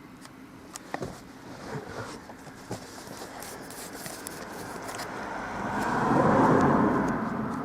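A road vehicle passing close by: its noise swells to a peak about six and a half seconds in, then fades. A few light clicks and knocks come earlier.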